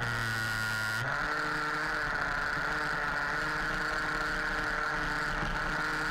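Small two-stroke petrol engine of an HPI Baja 5B RC buggy running, heard from a camera mounted on the car, with a steady drone that shifts in pitch about a second in.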